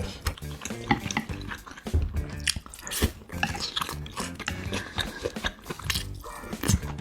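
Close-miked eating sounds: many quick clicks of spoon or chopsticks against dishes, with chewing, over soft background music.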